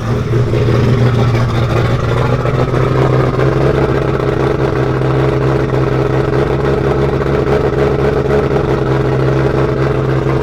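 Nissan RB28DET straight-six (a stroked RB26 on a single turbo) running at a steady, choppy idle on its first start.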